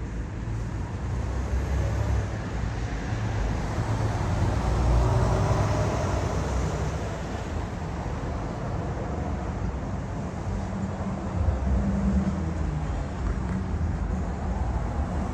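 Steady low rumble of distant engine noise, swelling slightly about five seconds in.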